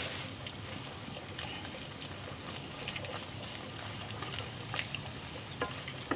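Chicken, potato and chilli sizzling in oil in a frying pan: a steady hiss with a few scattered crackles.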